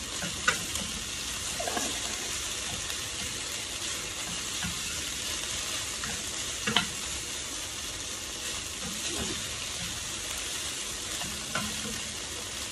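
Diced pork, vegetables and fish sizzling in a metal frying pan while a wooden spatula stirs and turns them. A few sharp clicks of the spatula against the pan, the loudest about seven seconds in.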